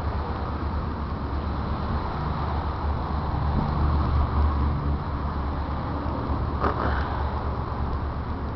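Diesel commuter train standing at a platform with its engine idling: a steady low rumble with a hiss of noise above it.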